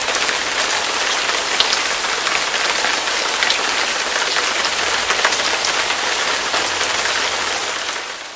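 Heavy rain falling steadily, a dense hiss with scattered drops pattering, fading out near the end.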